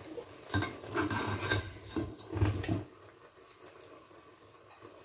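Scraping and rubbing with a few knocks, the sound of food and kitchenware being handled, lasting about two seconds and stopping just before the halfway point.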